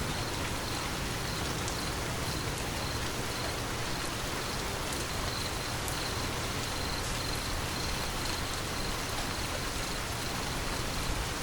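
Steady rain falling, an even hiss with scattered drop ticks. A faint high insect chirp repeats at an even pace, a few times a second, throughout.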